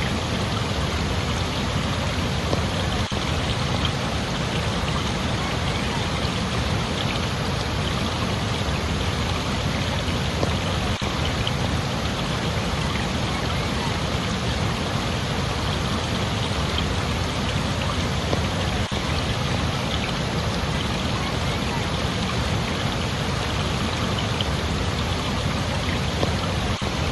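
Steady rushing water, an even unbroken noise without changes.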